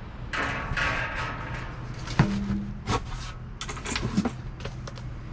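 Items being shifted and rummaged in a dumpster: rustling for the first two seconds, then a sharp knock followed by a series of smaller knocks and clatters.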